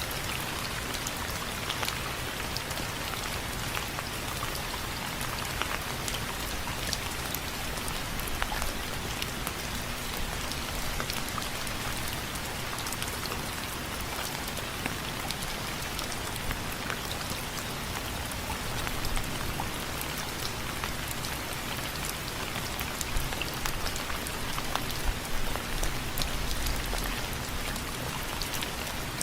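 Steady rain with many separate drops tapping on window frames, a few louder drips standing out near the end.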